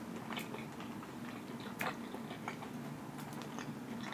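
Close-miked chewing of cheesy meatballs with the mouth closed: soft, wet mouth clicks scattered through, the loudest a little under two seconds in.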